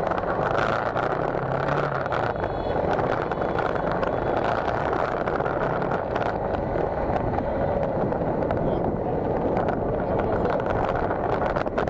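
Motorcycle riding at road speed: steady engine and wind noise on the rider's microphone.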